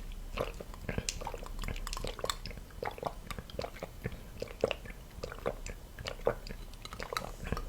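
A person chewing and biting food close to the microphone, mukbang style, with small irregular mouth clicks several times a second.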